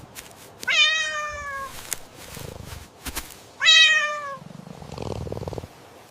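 A cat meowing twice, two drawn-out meows that each fall slightly in pitch, a few seconds apart.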